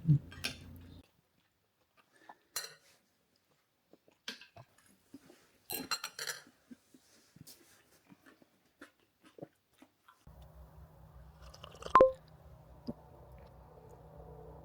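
A pet chewing food in short, scattered crunches. About ten seconds in a steady low hum comes in, and then a single sharp clink rings out briefly.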